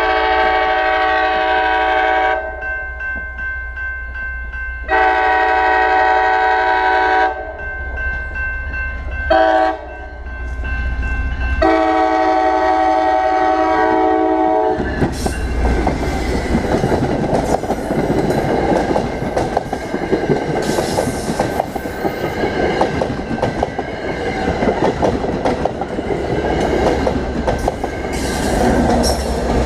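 MBTA HSP46 diesel locomotive's air horn sounding the grade-crossing signal, long, long, short, long, then the train passing the crossing at speed: engine and wheels clattering over the rails. A crossing bell rings steadily underneath throughout.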